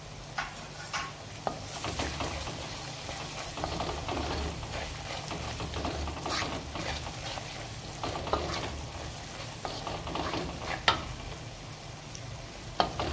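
Spice masala sizzling and frying in oil in a kadhai while a wooden spatula stirs and scrapes it, with a few sharp knocks of the spatula against the pan. This is the bhuno stage, frying the masala after the ground spices have gone in.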